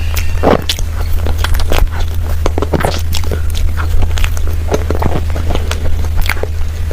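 Mouth sounds of eating creamy cake: irregular chewing and lip-smacking clicks, several a second, over a steady low hum.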